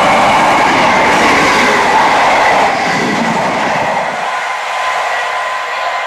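A train running past on the line, with wheel-on-rail noise and a faint steady whine; the low rumble falls away about four seconds in as it draws off.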